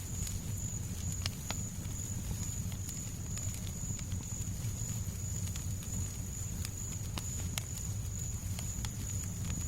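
Fireplace fire crackling, with scattered sharp pops and snaps over a steady low rumble, and a thin steady high tone above it.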